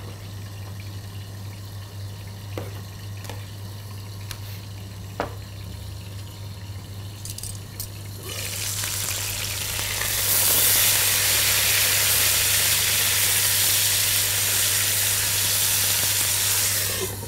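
Chicken breast laid into hot oil in a frying pan, sizzling. The sizzle starts about eight seconds in, grows loud a couple of seconds later and cuts off sharply near the end. Before it there are only a few faint clicks.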